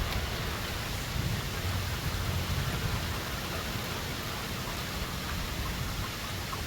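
Strong storm wind blowing: a steady hiss with a low, gusting rumble of wind buffeting the microphone.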